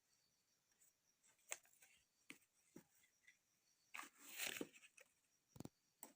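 Faint handling noises: a few light clicks, a short rustle about four seconds in, and a soft thump near the end.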